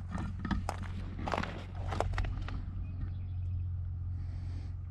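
Camera handling noise: a run of short knocks and scrapes in the first couple of seconds over a steady low rumble, then quieter rustling.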